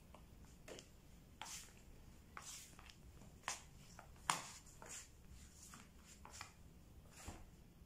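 Faint scattered clicks and rustles, about ten of them, the sharpest about four seconds in, over quiet room tone.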